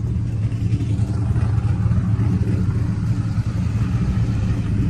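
V8 truck engine idling steadily with a low, even rumble.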